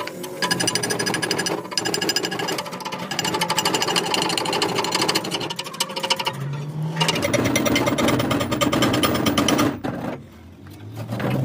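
A power tool making rapid repeated strikes, in a long run with a short break about ten seconds in.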